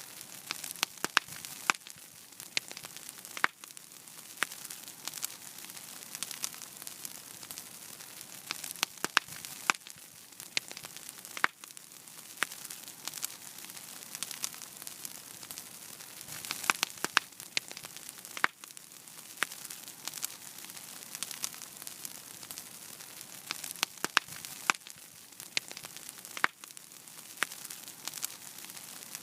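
Wood fire burning in a fireplace: a steady hiss with frequent irregular crackles and sharp pops scattered throughout.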